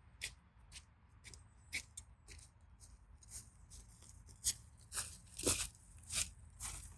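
A run of irregular sharp metal clicks and taps, about a dozen, from paintless dent repair tools working a car body panel; the loudest come in the second half.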